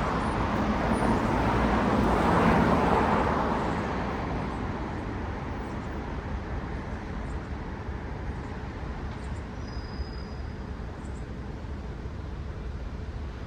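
Road traffic: a car passes close by, its tyre and engine noise swelling for about the first three seconds and then fading into a steady hum of distant traffic.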